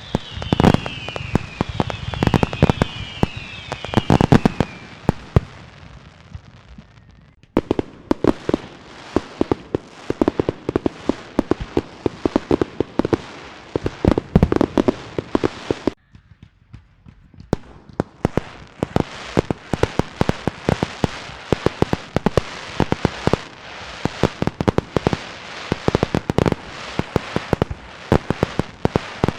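Fireworks and firecrackers going off in rapid, dense strings of bangs and crackles. Several short falling whistles sound over the bangs in the first few seconds. The barrage breaks off briefly about seven seconds in and again around sixteen seconds, then starts up again.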